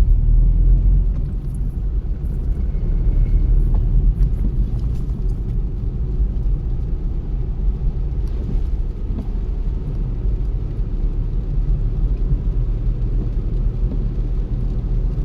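Steady low rumble of a car being driven at cruising speed: engine and road noise, even and unbroken.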